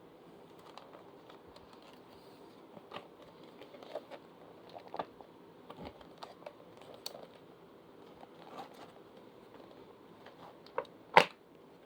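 Plastic parts of an electric fan being handled and fitted together during assembly: scattered light clicks and knocks, with one loud sharp click near the end.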